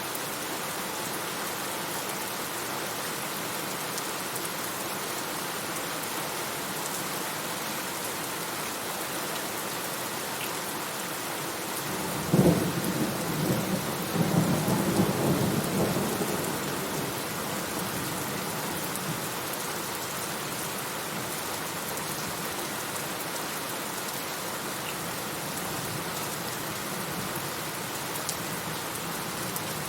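Steady heavy rain falling, with a sharp thunderclap about twelve seconds in that rolls on as a low rumble for a few seconds before fading back under the rain.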